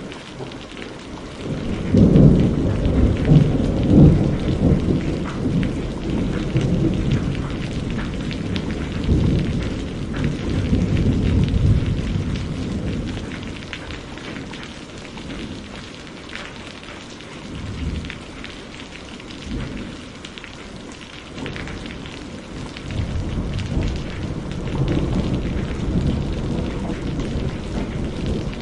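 Steady rain with rolling thunder. A long low rumble swells about two seconds in and dies down by around thirteen seconds; smaller grumbles follow, then another rumble builds near the end.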